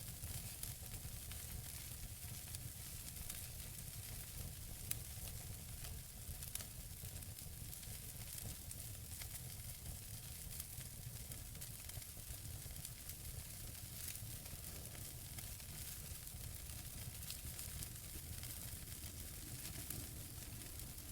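Wood fire burning in a fireplace: a steady hiss of burning logs with scattered small crackles and pops, and one sharper pop about five seconds in.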